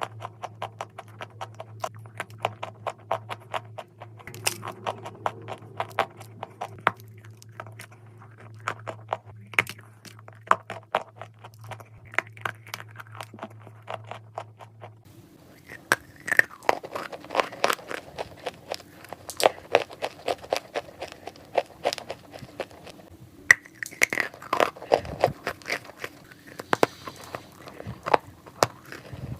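Someone biting and chewing crunchy chalk clay: many small sharp cracks and crackles in quick succession, growing louder and denser in the second half. A low steady hum runs underneath and stops about halfway through.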